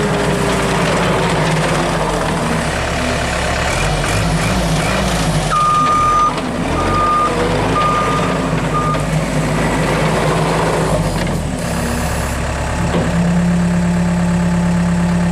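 Case 450CT compact track loader's diesel engine running under changing throttle, its pitch shifting up and down as the machine works. About a third of the way in, its backup alarm beeps four times.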